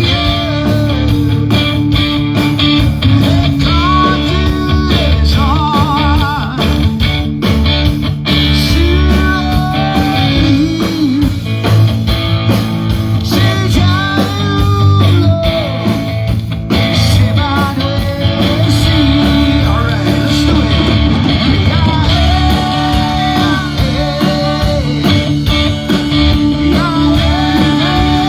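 Live rock band playing loudly, guitar-led, with a melodic lead line bending over a steady bass.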